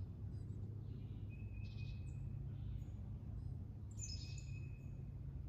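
Songbirds singing in the trees: a thin held note with a short chirping phrase about a second and a half in, and a quick cascading phrase about four seconds in, over a steady low background rumble.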